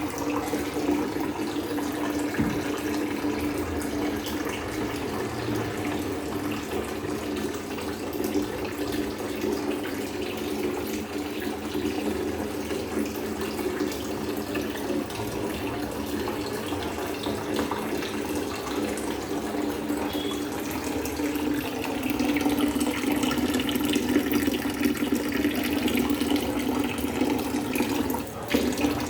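Water running steadily from a tap, a little louder from about 22 seconds in.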